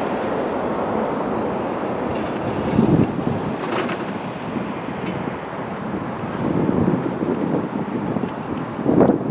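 Jet engines of an Airbus A380 on its takeoff run, a steady broad rumble that swells and eases several times, loudest near the end.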